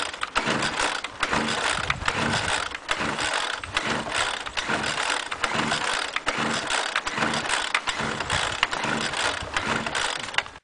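Homelite two-stroke leaf blower engine being cold-started at about 0°F, running loud and uneven with irregular pulses and knocks rather than a smooth steady note, then cutting off abruptly.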